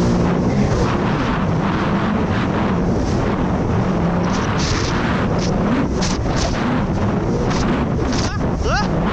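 Jet ski engine running under way, its pitch rising and falling as the throttle changes, over rushing spray and water slapping the hull and wind buffeting the microphone.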